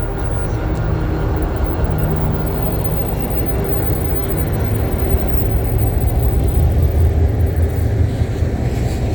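Train running by with a steady low rumble, a little louder in the second half.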